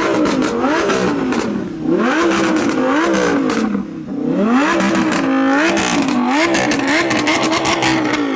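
Car engine revved hard and held high, its pitch climbing and dropping over and over, with short dips about two and four seconds in. A run of sharp crackles sounds through the middle of the revving.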